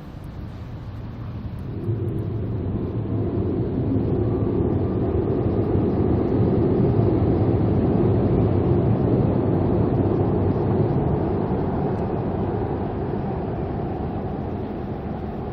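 Engine of a long river boat rumbling as it passes by. It swells louder through the first half and then slowly fades away.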